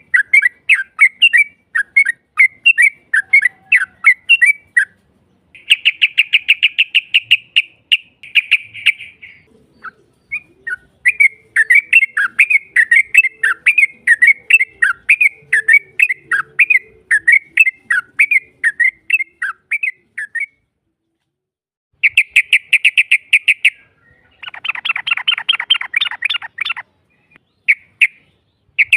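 Yellow-vented bulbul (trucukan) song: series of quick bubbly chirps broken by several fast rolling trills, the long "ropel" roll, with a harsher rattling chatter a little before the end. A short pause comes around two-thirds of the way through.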